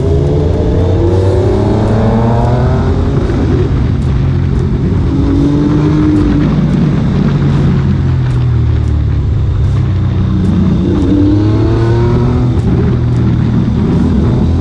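Motorcycle engines accelerating, their pitch rising as they rev up, once near the start and again about ten seconds in, over a steady low engine drone.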